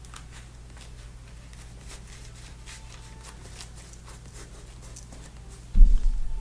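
Steady low electrical hum with faint scattered ticks of playing cards being handled on a table, then a sudden heavy low thump near the end.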